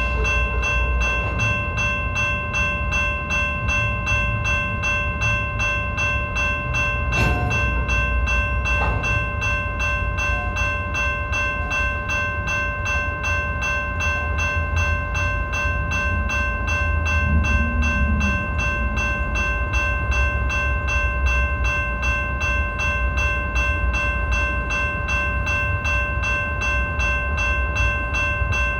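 BNSF freight train rolling past with a continuous deep rumble, over which several steady high-pitched tones ring without a break.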